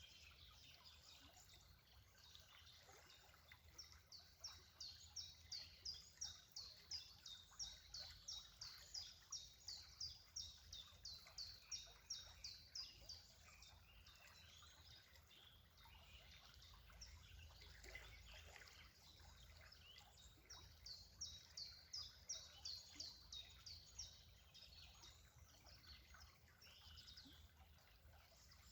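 A bird calling faintly in two long runs of quick, high, evenly repeated notes, about three a second, over a faint low rumble.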